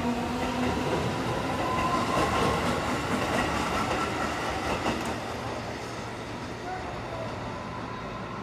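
Electric commuter train running past on the rails, wheels clattering with a thin whine over the rumble. It is loudest about two seconds in and then slowly fades as the train pulls away.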